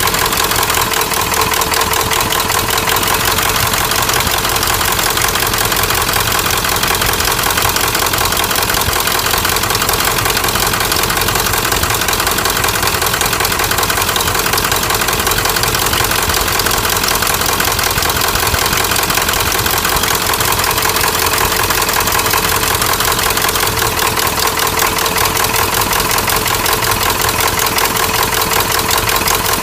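1997 Ford F-350's 7.3-litre Power Stroke turbo-diesel V8 idling steadily, a sound the owner puts down to bad injectors.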